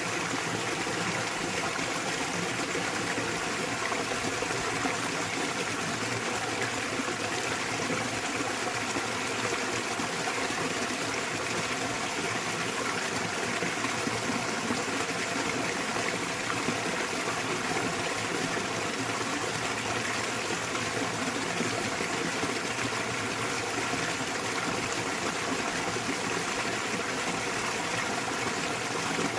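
Small waterfall splashing into a mountain stream: a steady, even rush of falling and flowing water with no breaks.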